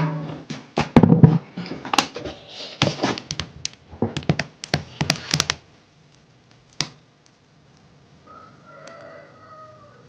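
A quick run of irregular knocks and taps, as of objects being handled and set down, for about six seconds. Then it goes quiet apart from a single tap and a faint pitched sound near the end.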